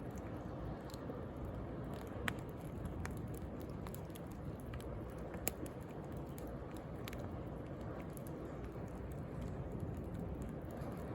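Wood bonfire crackling with scattered sharp pops, two louder ones about two and five and a half seconds in, over a steady wash of sea waves.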